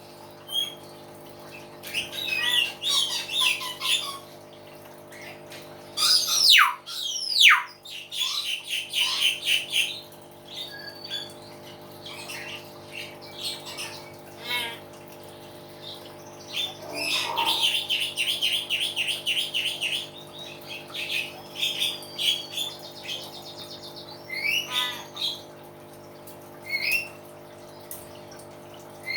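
Hill myna calling loudly in irregular bouts of squawks, whistles and chatter. Two sharp downward-sliding whistles come around six to eight seconds in, and a fast run of repeated notes comes around seventeen to twenty seconds in.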